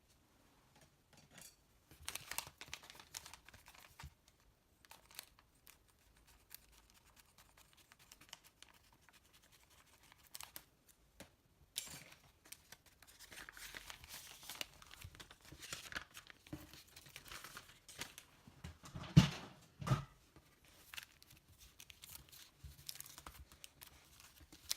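Packaging being torn open and crinkled by hand in fits and starts, with small clicks and rustles. Two louder knocks come close together about three-quarters of the way through.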